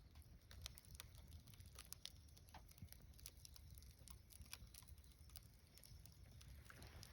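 Wood fire crackling faintly, with scattered sharp pops and snaps at irregular intervals.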